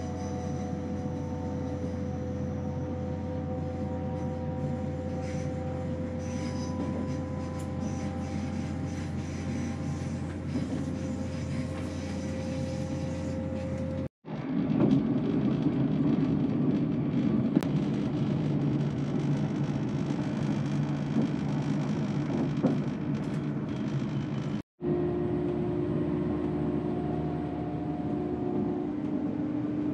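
Passenger train running: a steady rumble with a held mechanical whine. The sound cuts out abruptly twice, about fourteen seconds in and again near the end, coming back louder and changed each time.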